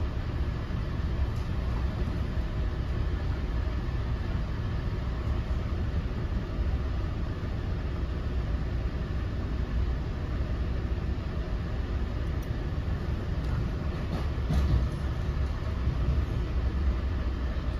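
Steady low rumble and running noise of an NJ Transit Multilevel rail coach travelling at speed, heard inside the passenger cabin, with one brief louder bump about three-quarters of the way through.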